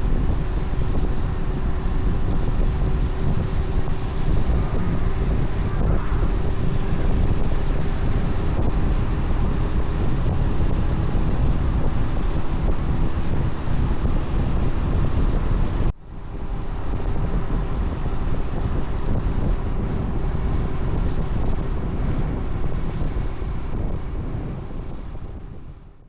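Wind buffeting the microphone while riding a G-Moto Cross X Pro 125 moped, with the steady hum of its 125 cc engine underneath. The sound cuts out for an instant about sixteen seconds in, picks up again, and fades out at the end.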